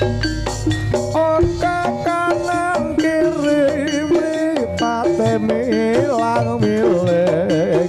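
Live jaranan senterewe band music: a wavering, bending melody line over drums and shaker-like percussion.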